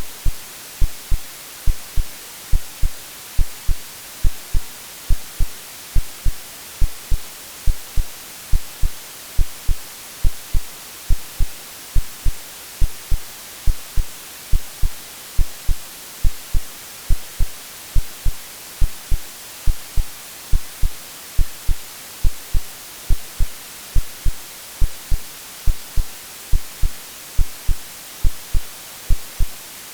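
Steady white-noise hiss with a synthetic heartbeat laid over it: low double thumps, lub-dub, about one beat a second. The mix imitates the sounds heard in the womb.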